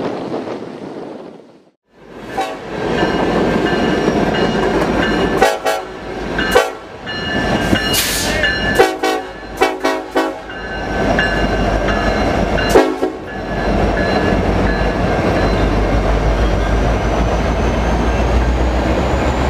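Freight train passing close by: the diesel locomotive's horn sounds with held tones and the wheels knock over rail joints, over a steady rumble. The sound cuts out briefly about two seconds in before the train is heard.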